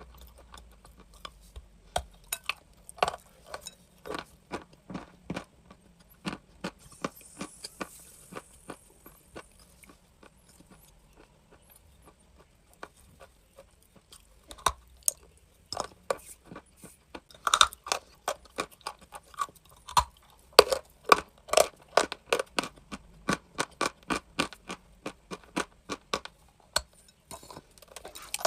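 Crunchy chalk being bitten and chewed: a run of short, crisp cracks, sparse for several seconds in the middle and coming thick and fast in the second half.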